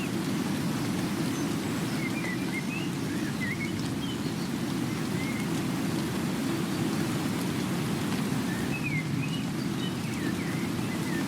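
Steady rain falling, an even hiss with no break in level. A few faint, short bird chirps come in twice, about two seconds in and again near the end.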